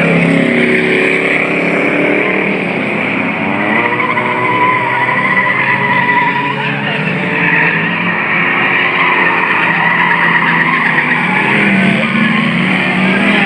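Several old cars and trucks racing on a track, their engines running hard and continuously, with pitch wavering as they rev.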